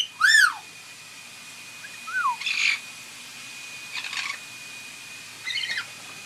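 Pet parrots calling: one loud rising-and-falling call at the start, a shorter falling call about two seconds in, then three short raspy squawks about a second and a half apart.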